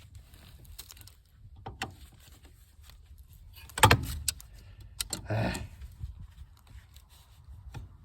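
Hand tools and small metal parts clicking and clinking during work at a car's front wheel spindle nut, with a sharp metal knock about four seconds in and a short scraping rattle a second later.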